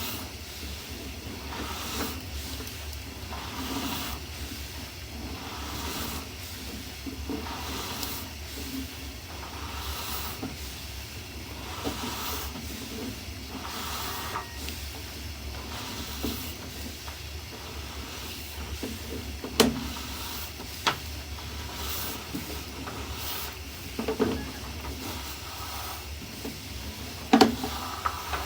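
Sewer inspection camera being pushed along a main sewer line: soft scraping swishes about every two seconds over a steady low hum, with a few sharp knocks near the end.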